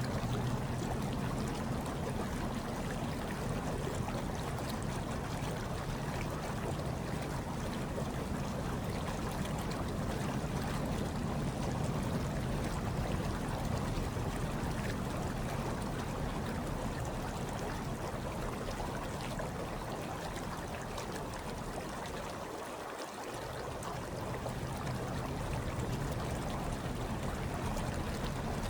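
Hot tub water bubbling and churning steadily over a low hum. The low hum drops away briefly about 23 seconds in.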